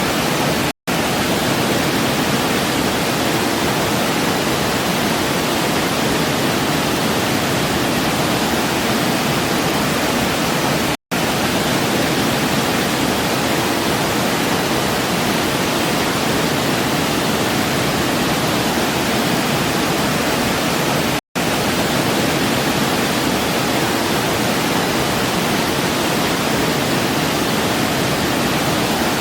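Waterfall rushing, an even, steady full-range hiss of falling water. It cuts out to silence for a split second three times, about ten seconds apart.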